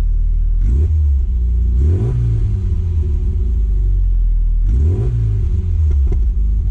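A classic Mini's engine running at idle through its exhaust and being revved up a few times, each time dropping back to idle.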